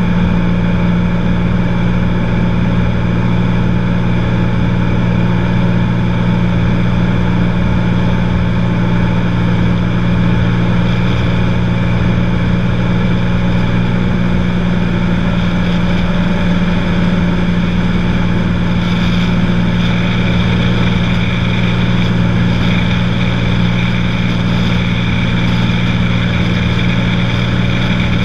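Cessna 182's piston engine and propeller droning steadily in flight, a constant low hum with no change in power.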